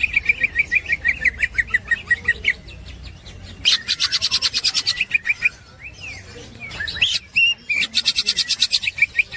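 Green leafbird (cucak hijau) singing its 'ngekek' song: rapid strings of repeated high chattering notes in three bouts, with a few gliding whistles between them.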